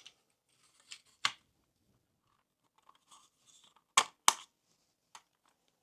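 Plastic body shell of a Lima Class 117 OO gauge model DMU car being pushed onto its chassis: light scraping with a click about a second in, then two sharp clicks about four seconds in as it goes on.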